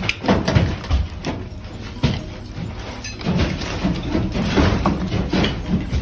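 Demolition noise from gutting a house: irregular thuds, knocks and crashes of material being torn out and dropped.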